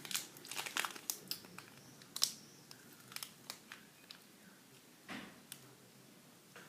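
Faint crinkling and small sharp clicks of a snack wrapper being handled and opened, thickest in the first few seconds, with a soft rustle about five seconds in.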